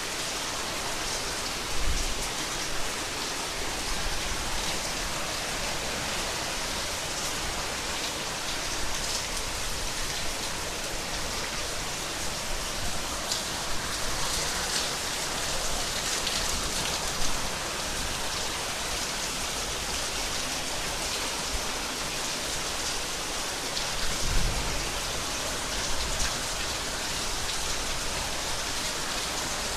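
Heavy rain pouring steadily and evenly, with a few brief low bumps about two seconds in and again near the end.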